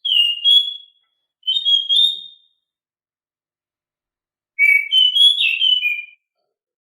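Anis macan thrush singing loud, clear whistled phrases: a short two-note phrase at the start, another about a second and a half in, and a longer run of four or five slurred notes about four and a half seconds in, then silence.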